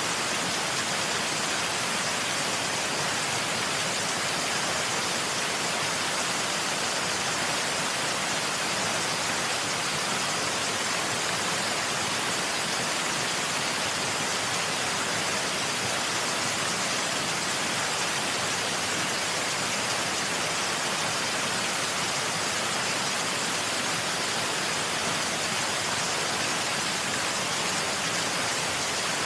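Waterfall rushing: a steady, unbroken hiss that never changes in level.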